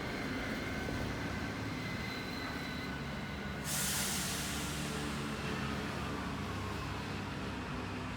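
Steady vehicle rumble with a few faint steady tones, and a sudden loud hiss about three and a half seconds in that fades away over several seconds.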